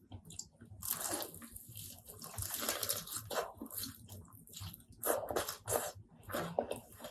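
Close-miked eating: wet chewing with irregular crunches and mouth clicks, in uneven bursts.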